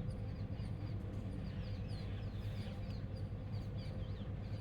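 Faint, short bird chirps repeating over a steady low hum.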